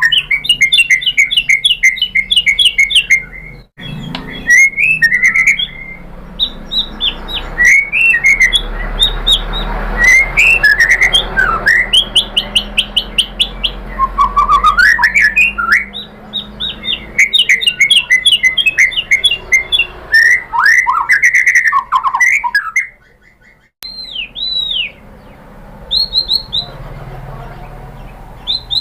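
White-rumped shama singing a loud, fast song: rapid runs of repeated chipping notes alternating with whistled and sliding phrases, with a brief pause about 23 seconds in.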